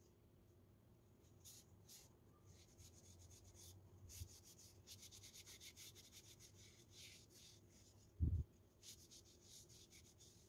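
Faint scrubbing of a surface in quick back-and-forth strokes, with a single dull thump about eight seconds in.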